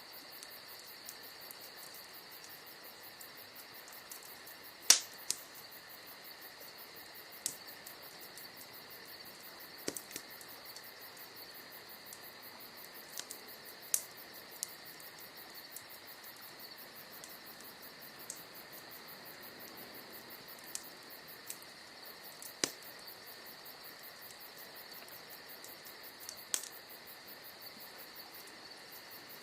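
Wood fire crackling, with scattered sharp pops at irregular intervals, the loudest about five seconds in, over a steady high chirping of crickets.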